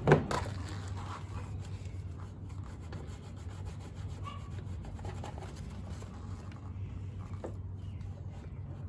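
Hands working on mower wiring: rubbing and scraping handling noises, with one sharp knock just as it begins, over a steady low hum.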